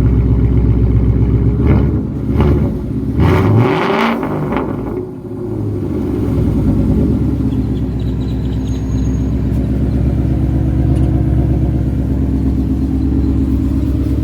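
2016 Ford Mustang GT's 5.0 L V8, straight-piped with an X-pipe and resonator and muffler delete, running just after a cold start. It is revved about three times between about two and four seconds in, then settles back to a steady idle.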